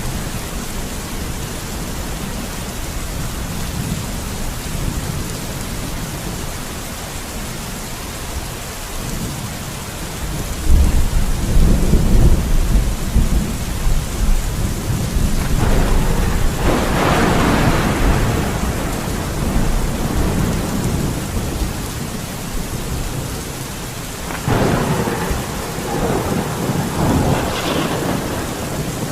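Steady rain with a thunderstorm: a deep rumble of thunder builds about ten seconds in, followed by louder crackling peals of thunder past the middle and again near the end.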